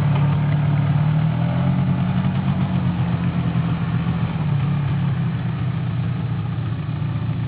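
Quad bike engine running steadily, a low even drone.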